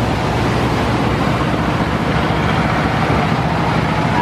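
River passenger launch MV Karnaphuli 14 running at speed, its engines giving a steady low drone over a constant rushing hiss.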